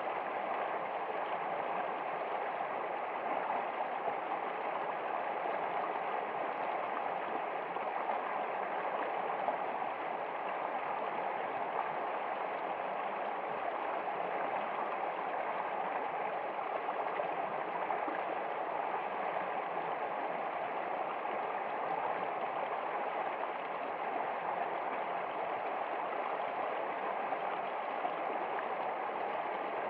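Steady flowing water: an even, continuous rush with no pauses or distinct events.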